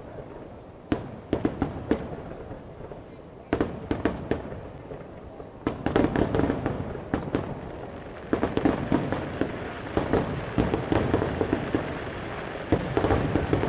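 Aerial fireworks shells bursting overhead: a quick series of bangs and pops that grows denser and louder from about six seconds in.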